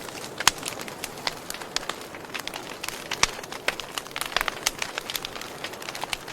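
Wood fire burning, with a steady hiss and irregular sharp crackles and pops, several a second.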